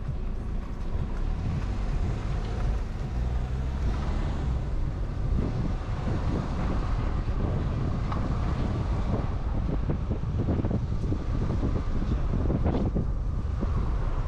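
Car driving along a road: steady engine and road noise, with wind buffeting on the camera's built-in microphone.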